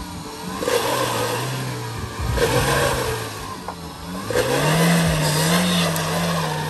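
Car engine revving in three surges, the last one held longer, as the car sits stuck on an icy road.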